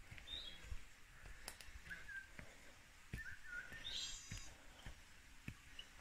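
Forest birds calling with short chirps and whistles scattered through, the strongest a brief buzzy call about four seconds in. Soft thuds of footsteps on the path about once a second.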